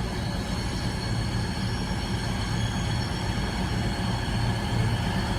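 Diesel passenger train engines running at a station platform, a steady low hum with a constant high whine over it.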